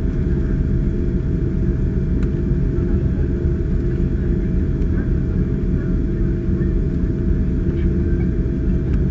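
Steady cabin rumble of a Boeing 787-9 heard from a window seat, mostly low engine and airframe noise with a constant hum, from its GEnx-1B engines.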